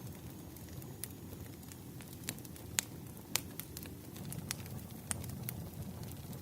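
Wood fire crackling: irregular sharp pops and snaps, two louder ones near the middle, over a steady low rumble.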